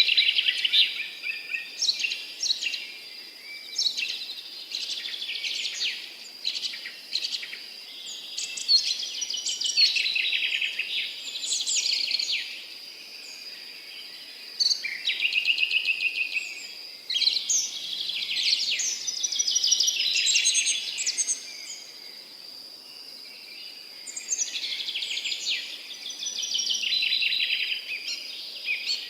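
Songbirds singing in the open: repeated phrases of rapid trills and chirps, each a second or two long with short pauses between, over a steady high-pitched whine.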